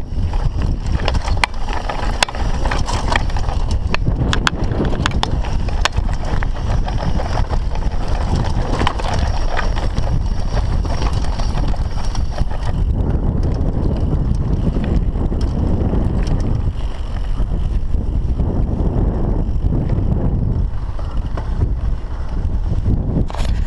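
Mountain bike rolling down a rough trail: a continuous rumble of tyres over dirt and rocks with frequent sharp knocks and rattles from the bike, and wind on the microphone.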